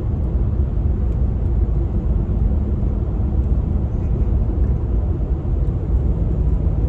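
Steady road and engine rumble inside the cab of a loaded truck cruising at speed.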